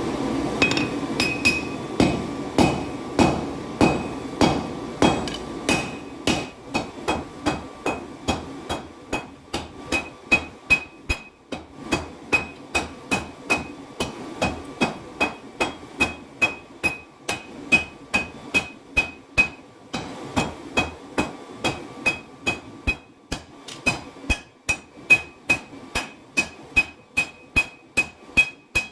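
Hammer blows forging 5160 leaf-spring steel on an anvil, a steady run of about two strikes a second, each with a clear metallic ring.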